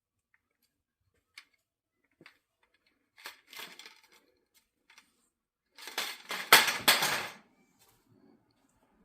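A few sparse light clicks, then a short burst of clinking and a louder clatter of hard objects being handled, loudest about six to seven seconds in.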